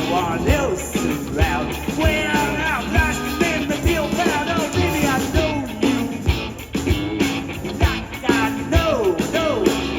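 Live blues band playing with a steady drum beat and a lead melody line that bends and wavers in pitch.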